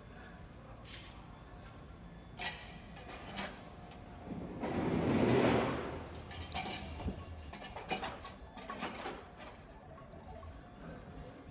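Scattered metallic clinks and knocks of hand tools and parts being handled. A rushing hiss swells for about two seconds near the middle.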